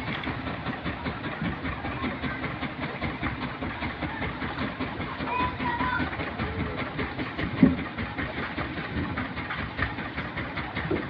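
Machinery running with a steady rapid clatter, with one loud knock a little past halfway.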